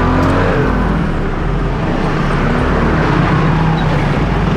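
A car's engine running loudly amid a dense, steady noise.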